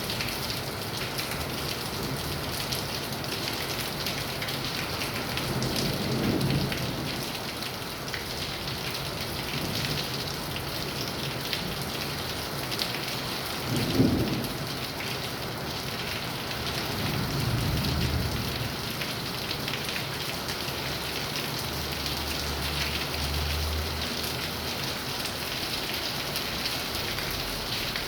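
Steady heavy rain falling, with thunder: a rumble about six seconds in, a sharp loud clap about halfway through, and further low rumbles after it.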